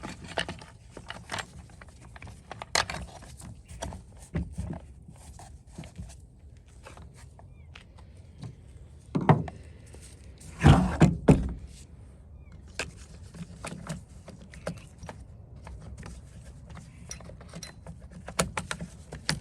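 Plastic and metal chainsaw parts being handled and fitted back together: a run of small clicks and rattles, with a few louder knocks and a rattling clatter about halfway through.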